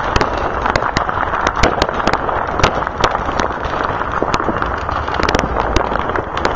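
Fireworks and firecrackers going off all around: a continuous din of overlapping distant bangs with irregular sharp pops, a few a second.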